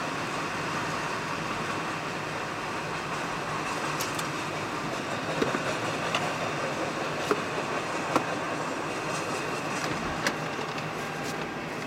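Freight train of autorack cars rolling past at close range: a steady rush and rumble of steel wheels on rail, with a few short sharp clicks between about four and ten seconds in.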